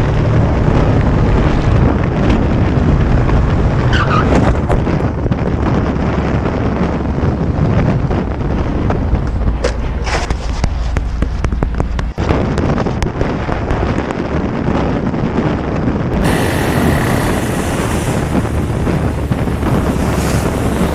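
Vehicle engine and road noise with wind on the microphone, changing abruptly twice, about 12 and 16 seconds in, as the footage cuts.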